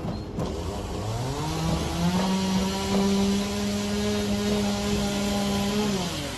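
Chainsaw engine revving up to full speed about a second in, holding a steady high pitch for about four seconds, then dropping back near the end.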